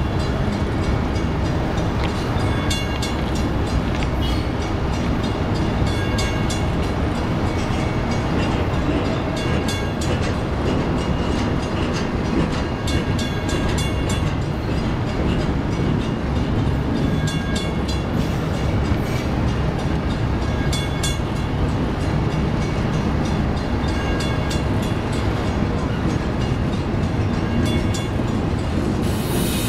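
BNSF double-stack intermodal train's container cars rolling past close by: a steady rumble of steel wheels on rail, with bursts of clicking every few seconds.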